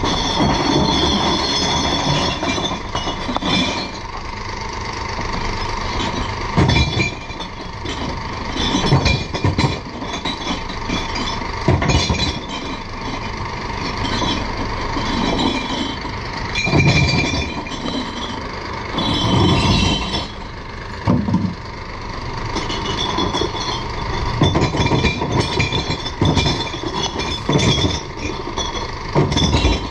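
Glass bottles clinking and crashing in irregular bursts as they are emptied into a glass recycling truck, over the truck's steadily running engine.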